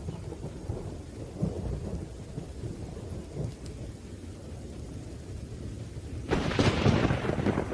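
Thunderstorm: a steady low rumble of thunder with rain, then a sharp, louder thunderclap about six and a half seconds in.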